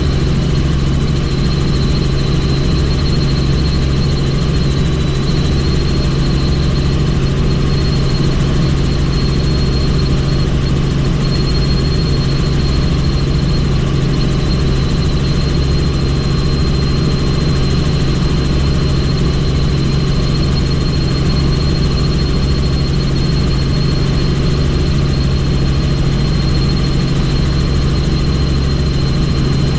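Helicopter in flight, heard from on board: a loud, steady drone with a low hum and a thin high whine.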